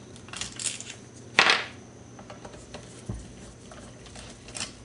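A few short metallic clicks and scrapes of hand tools and loose metal carburetor parts being handled, the loudest about a second and a half in, with a soft knock near the three-second mark.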